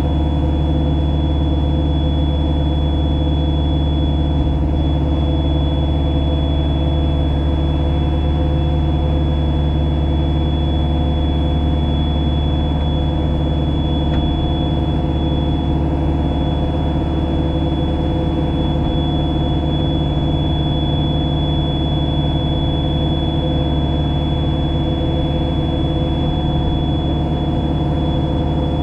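JCB Pothole Pro's diesel engine running steadily, heard from inside the cab as an even low hum, with a thin high-pitched whine held over it.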